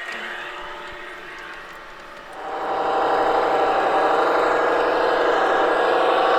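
Diesel engine sound from the new ESU XL 5 sound decoder in an LGB V 200 model locomotive, played through its speaker while the locomotive runs. The sound dips, then grows louder about two and a half seconds in and holds steady.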